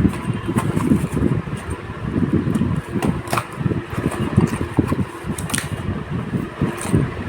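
A stock CPU cooler being handled, with a fluttering low rumble and a few light clicks spread through.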